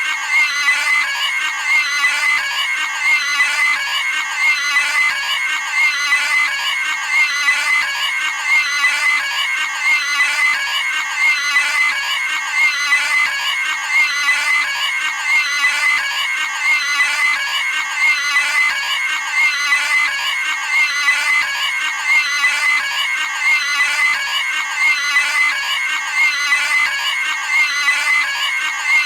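Cartoon pig's high-pitched squealing scream, one short clip looped over and over without a break.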